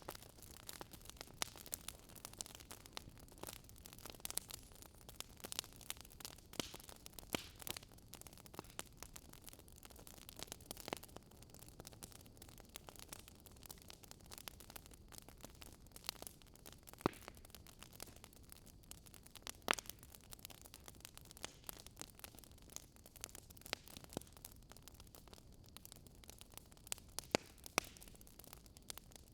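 Wood fire crackling in a fireplace: a soft steady hiss with scattered sharp snaps and pops, a few of them louder.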